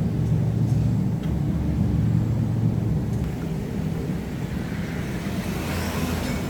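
A motor running with a steady low hum, with a hiss building over the last couple of seconds.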